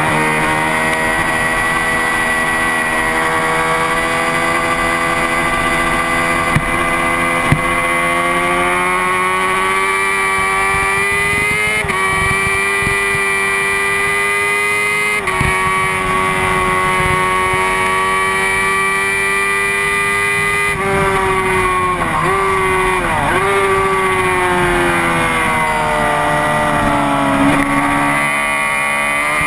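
Honda CBR600RR's inline-four engine running hard on track. The revs climb steadily and step at two upshifts about twelve and fifteen seconds in. Around twenty-two seconds in the revs drop with two quick blips of downshifting, then fall away and build again near the end.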